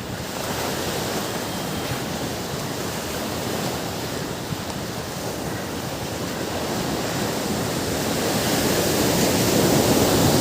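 Ocean surf washing onto a beach: a steady rush of waves, with a wave building and breaking near the end.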